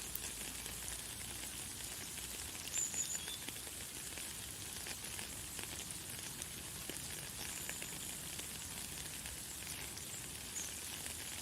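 Light, fine rain falling steadily as an even hiss with many small drop ticks, with a few brief, faint high bird chirps.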